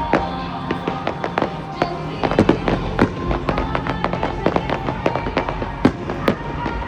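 Fireworks display going off in rapid succession, a dense run of bangs and crackles several a second, the sharpest about two and a half, three and six seconds in, with music playing under the bursts.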